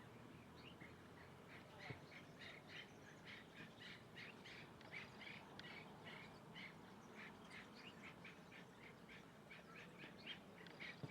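Birds calling faintly: a quick, uneven run of short chirping notes, several a second, getting busier a couple of seconds in.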